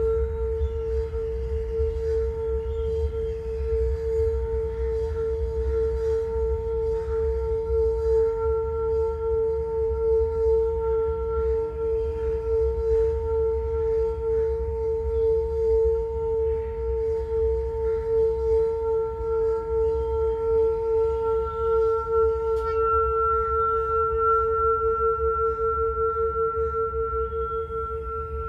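A D singing bowl sounding a long, sustained tone with higher overtones, its loudness wavering and pulsing throughout, over a low rumble.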